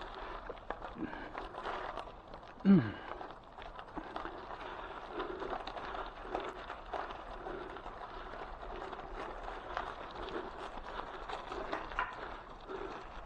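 Bicycle tyres (700 x 32 mm Maxxis Refuse) rolling over a gravel trail, a steady crackle and crunch with many small irregular clicks. A brief falling vocal sound about three seconds in.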